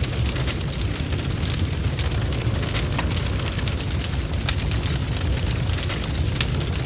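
Bonfire crackling: a steady low rumble of burning with frequent sharp pops and snaps.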